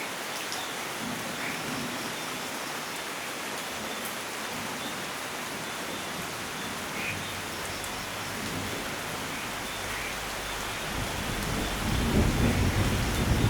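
Steady heavy rain hissing, with a low rumble of thunder building in the last couple of seconds and growing loud by the end.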